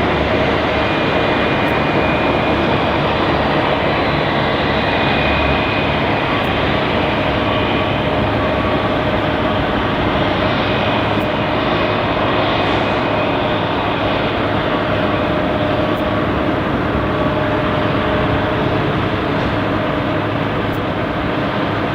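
Airliner jet engines running steadily: a loud, even rush with a faint whine over it, holding the same level without rising or falling.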